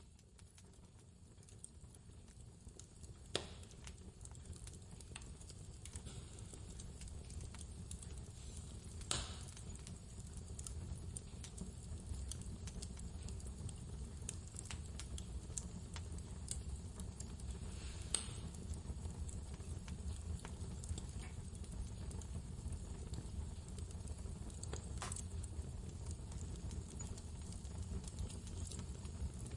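Wood fire crackling in a fireplace, scattered small clicks with four louder pops, over a steady low rumble of blizzard wind that fades in over the first few seconds.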